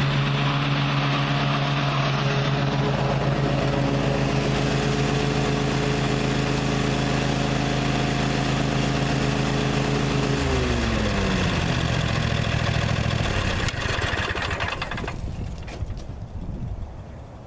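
Gravely ZTx 42 zero-turn mower's engine running steadily at speed. About ten seconds in, its pitch falls away over a couple of seconds as it winds down, and the sound fades near the end.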